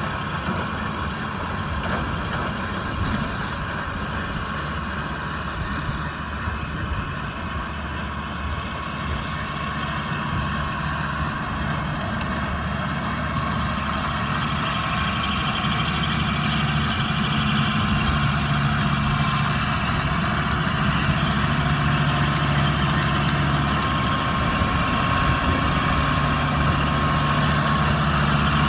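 Kubota M125X tractor's diesel engine running steadily while working a Young International Trotter 125 baler, with a steady machine hum over it. It grows gradually louder through the second half.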